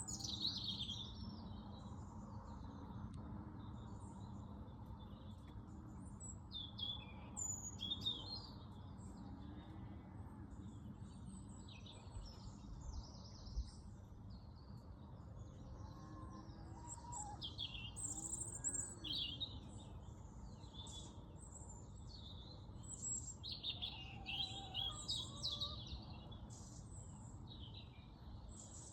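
Several songbirds chirping and singing in short, quick high phrases, busiest in the second half, over a steady low background rumble.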